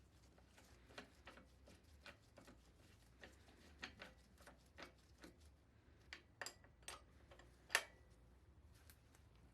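Faint, irregular light clicks and taps of tools and metal bike parts being handled, about one or two a second, with one sharper click about three quarters of the way through.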